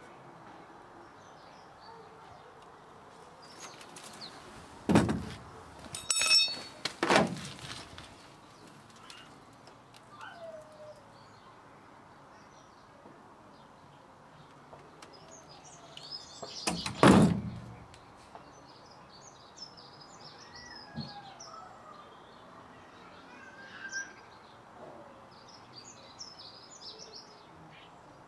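Garden birds singing faintly: scattered high chirps and short sliding whistles. A few loud thumps come about five, seven and seventeen seconds in.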